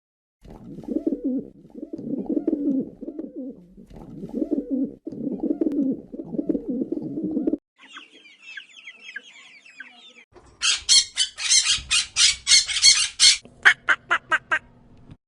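Bird calls in three parts. First about seven seconds of low, repeated calls, then a couple of seconds of high twittering, then loud, rapid pulsed calls at about four a second that quicken near the end.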